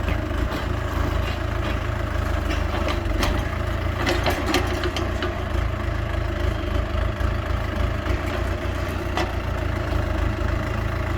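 Excavator engine running steadily, with a few sharp knocks about three, four and nine seconds in.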